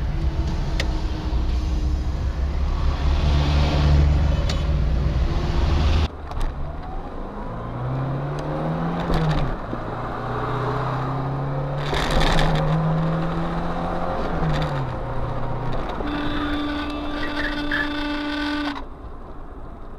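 Car traffic and engine noise, with engine pitch rising and falling. The sound cuts abruptly to a different scene about six seconds in and again near the end, with a steady held tone shortly before the last cut.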